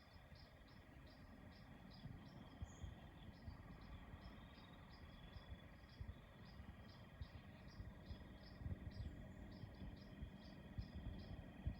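Faint crickets chirping steadily, about three chirps a second, over a low outdoor rumble.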